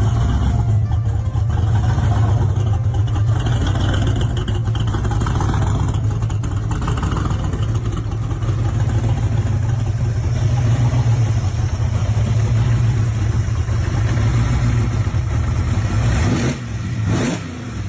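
Supercharged 496 cubic-inch big-block Chevy V8 with a 6-71 blower, running steadily with a deep, even low rumble. Its sound changes briefly near the end.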